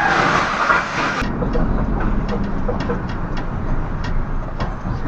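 Vehicle rumble while driving: steady low road and engine noise with scattered light clicks. A sudden change about a second in, where one clip's noise cuts off and another begins.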